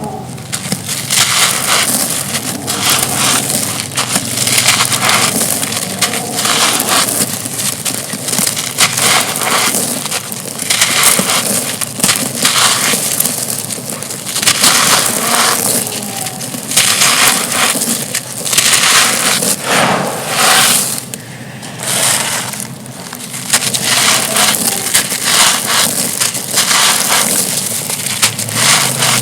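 Thin, soft, dusty stone-like slabs being crushed and crumbled: a continuous dry crunching that comes in rapid surges, with a brief lull about two-thirds of the way through.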